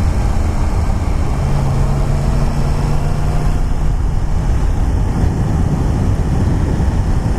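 Wind rushing over the microphone of a helmet-mounted camera on a moving Yamaha FZ-10, with the bike's inline-four engine holding a steady note underneath that sinks into the wind noise about four seconds in.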